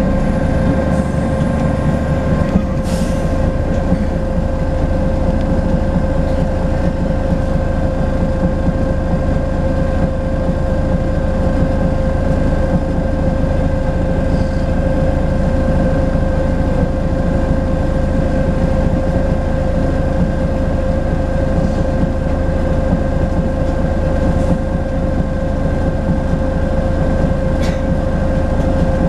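Volvo B10BLE single-deck bus cruising at a steady speed, heard on board: a low engine and road drone under a steady, unchanging high whistle from the turbocharger. A few faint rattles or clicks come from the body.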